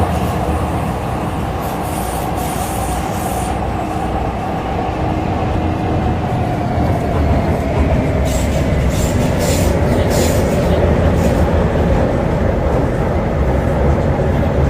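MTR Tseung Kwan O line C-Train running: steady rumble of wheels on the rails with a whine that drifts slightly lower in pitch, getting a little louder about halfway through, with a few brief rattles.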